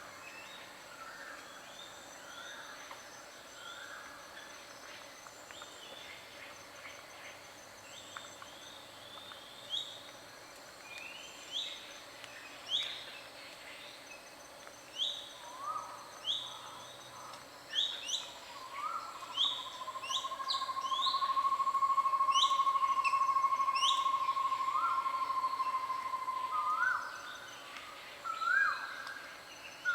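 Several wild birds calling, with repeated short, rising chirps and a lower repeated call. About two-thirds of the way through, a long steady whistle-like tone swells up and holds for several seconds. A faint steady high insect drone runs underneath.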